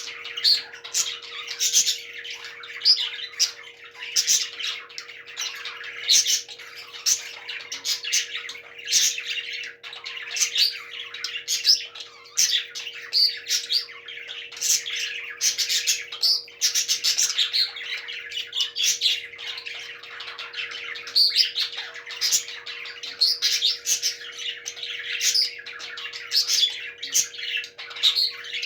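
Parrots chirping and squawking without pause, many short calls overlapping, over a faint steady hum.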